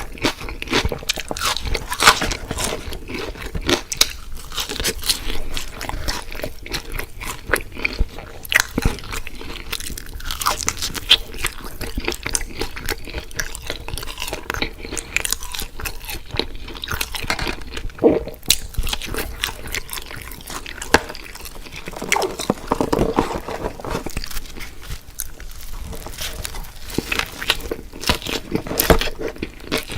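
Close-up mukbang eating sounds: crunchy bites and chewing of fast-food fried chicken and fries, a dense run of irregular crackling crunches with a softer, wetter chewing stretch a little past the middle.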